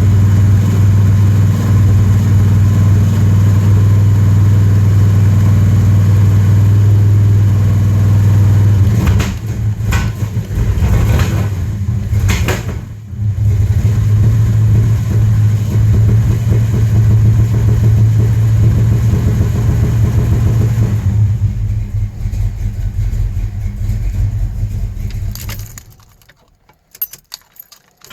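Car engine running on a cold start after sitting for 16 days: a steady hum for about nine seconds, then uneven with a few sharp clicks for several seconds, steady again, and dying away near the end with a few clicks.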